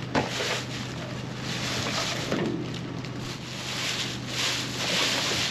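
Steady hiss of rain and wind on the microphone, swelling at times, with a knock just after the start and the rustle of a reacher grabber dragging a bag out of the trash in a metal dumpster.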